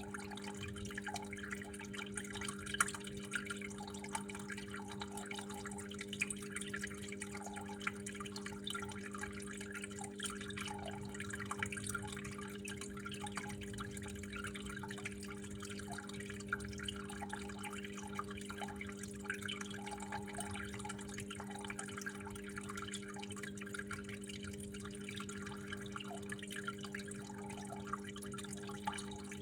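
Water trickling and dripping continuously, with small drops pattering here and there, over a constant low hum.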